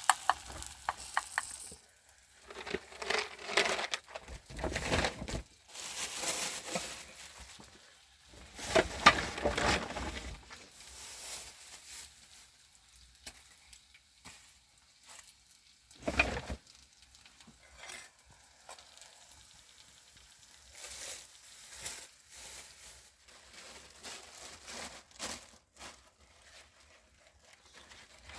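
Food sizzling in a pan, stopping about two seconds in, followed by scattered short bursts of handling and stirring noise and one sharp knock about sixteen seconds in.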